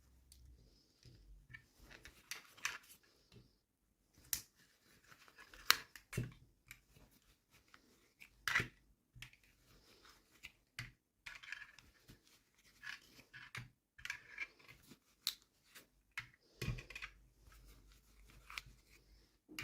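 Toy packaging handled and opened: irregular crinkling and tearing of wrappers with scattered sharp plastic clicks and taps.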